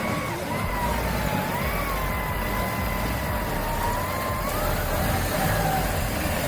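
Off-road 4x4 vehicle running with a low engine rumble under a high, steady whine that slowly wavers up and down in pitch.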